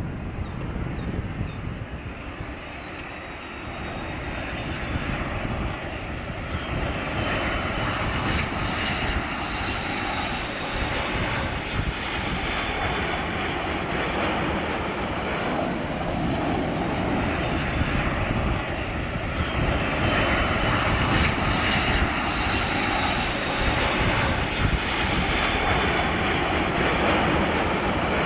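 Jet airliner's engines on approach to landing: a broad rushing noise that grows steadily louder, with high whining tones that slowly fall in pitch as the aircraft passes.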